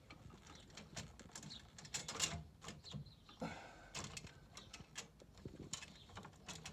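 Irregular light clicks and knocks of hands working a battery into a stairlift's cramped battery compartment among its wiring.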